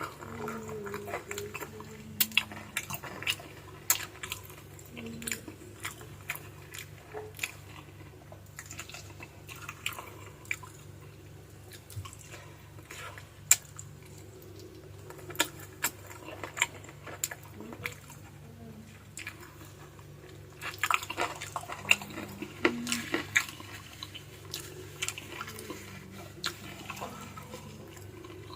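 A person chewing and biting adobo-braised chicken feet close to the microphone: wet mouth sounds broken by irregular sharp clicks and crunches of skin, cartilage and small bones, with a busier run of them about three quarters of the way through.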